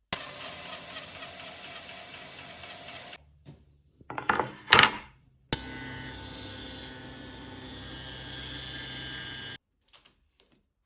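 Woodworking power tool running in short cut-together clips: a steady run of about three seconds, two loud brief swells about four to five seconds in, then another steady run of about four seconds that cuts off abruptly.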